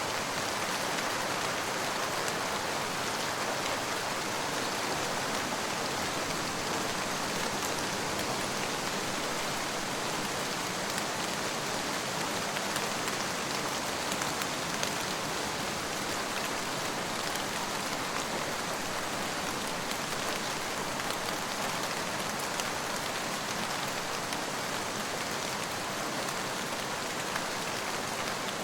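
Steady rain falling, an even hiss with scattered fine drop ticks and no change in strength.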